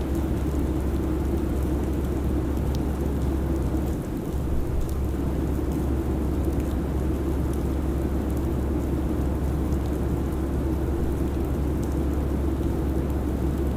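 Airliner cabin noise in cruise: a steady low drone and rushing air, with a brief dip about four seconds in.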